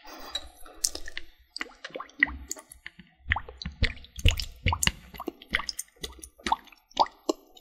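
Water handled close to the microphone: a quick, irregular series of wet plops, drips and squishes.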